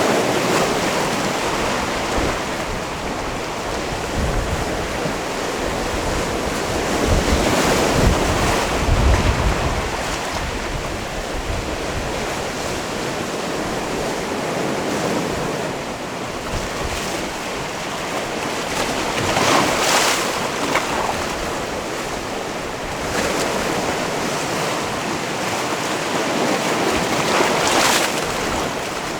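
Sea waves washing against a rocky shore: continuous surf with a heavier surge about eight seconds in and sharper splashes about twenty seconds in and near the end.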